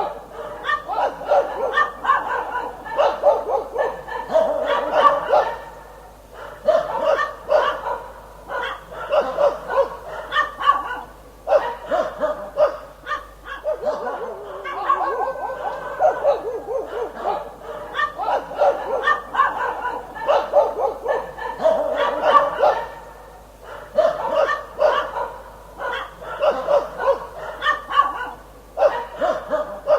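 Dog barking in repeated bouts of rapid, short barks, with brief pauses between the bouts.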